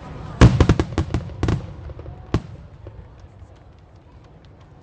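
Aerial firework shells bursting: a quick cluster of sharp bangs within about a second, one more bang about two seconds in, then faint scattered pops.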